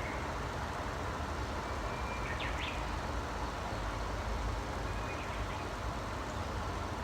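A few short, faint bird chirps, a pair about two and a half seconds in and another near five seconds, over a steady low rumble of background noise that is the loudest thing heard.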